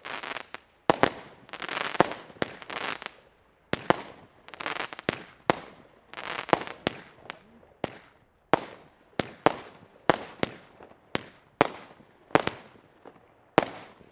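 Klasek consumer firework battery firing a rapid series of shots: sharp bangs about every half second to second, each trailed by crackle. The last shot comes just before the end.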